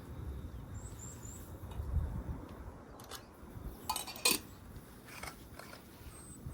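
A few short, sharp clicks and knocks, the loudest pair about four seconds in, over a low steady rumble, with faint high chirps around the first second.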